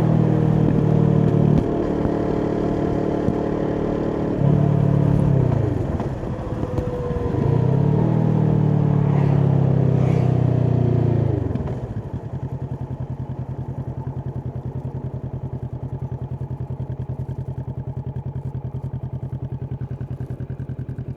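Kawasaki Vulcan S's 649 cc parallel-twin engine through an Arrow aftermarket exhaust, ridden with the revs rising and falling through gear changes. A little over halfway through the revs drop and it settles into a steady, evenly pulsing idle.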